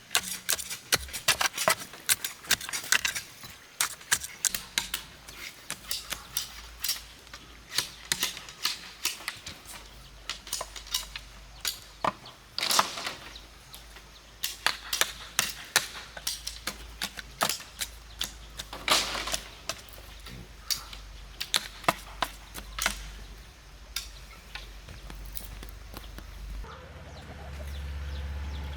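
Chickens clucking over a run of irregular sharp clicks and knocks, several a second.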